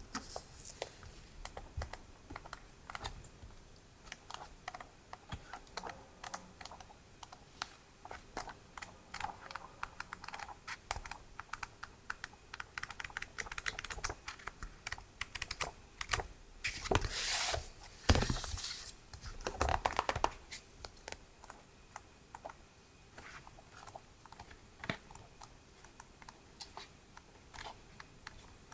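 Hands handling stationery items: many small, quiet taps and clicks, with a longer rustle of packaging about 17 to 19 seconds in.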